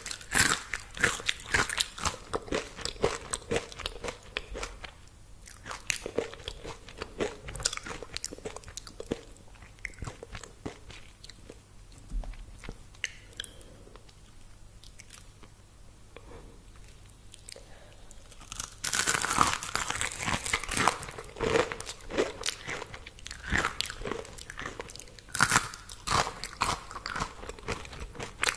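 Biting and chewing crispy fried food: sharp crunches, thick at first, thinning to quieter chewing in the middle, then a loud run of crunching from about two-thirds of the way through.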